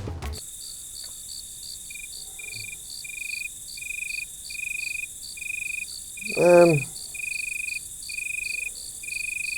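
Crickets chirping as a comedy sound effect for an awkward silence: an even run of chirps, a little more than one a second, over a faint hiss, which starts and cuts off abruptly. A brief murmur from a man's voice comes about two-thirds of the way through.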